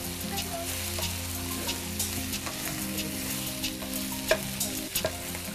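Battered, deep-fried mushroom pieces sizzling in hot oil with green chillies and onion in a frying pan. A wooden spatula stirs them, giving short scraping knocks against the pan over the steady sizzle.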